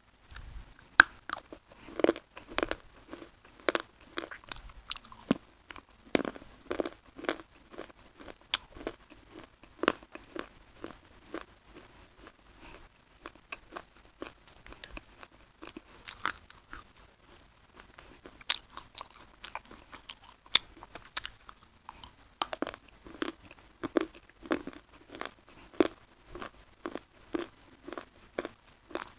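Close-up crunching of someone biting and chewing crisp Punjab biscuits: irregular sharp crunches, thinning out to a quieter stretch of softer chewing midway before heavier bites pick up again.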